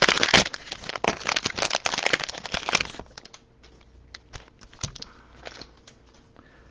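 Plastic wrapping of a trading-card pack crinkling and tearing as it is opened by hand, a dense crackle for about three seconds, then a few light clicks and rustles of handling.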